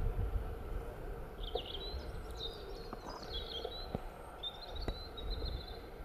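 Outdoor field ambience with a low rumble of wind on the microphone, and a small bird twittering in quick high chirps and trills from about a second and a half in. A few faint clicks.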